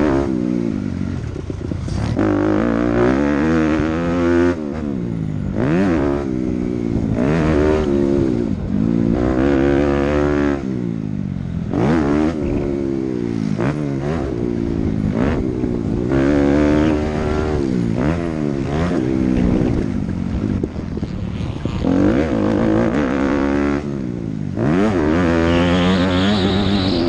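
Dirt bike engine on a motocross track, revving up and dropping off again and again as the rider throttles and shifts, about once every one to two seconds.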